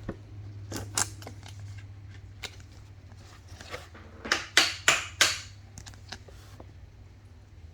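Trading cards and pack wrappers being handled: a few light clicks, then four quick, loud rasping strokes a little past halfway, over a steady low hum.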